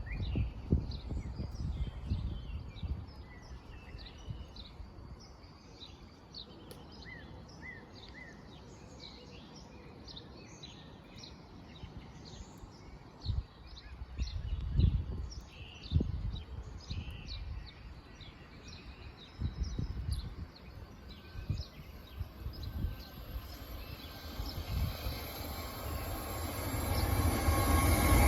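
Birds chirping over scattered low rumbles, then the rising rush of an approaching Class 450 Desiro electric multiple unit, growing steadily louder over the last several seconds.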